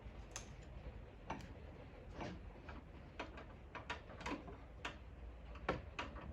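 Irregular light clicks and taps of hand tools and metal engine parts being handled during engine disassembly, over a low steady hum.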